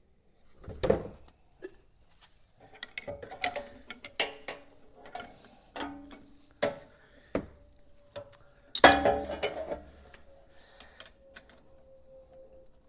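Metal hand tools clinking and knocking against the engine while working on the flywheel nut, in irregular knocks with a loud metallic clank about nine seconds in.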